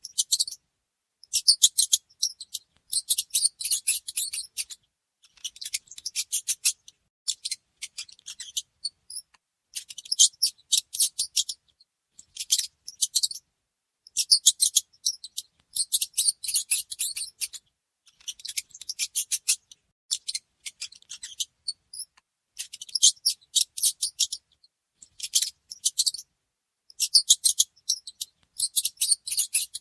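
Mouse scratching and rustling: rapid, high-pitched scratchy clicking in bursts of one to two seconds, with short silent gaps between them.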